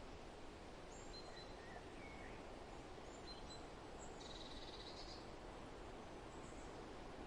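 Faint forest ambience: a steady rustling haze of wind, with scattered short, high bird chirps and one buzzy trill of a few tenths of a second a little past the middle.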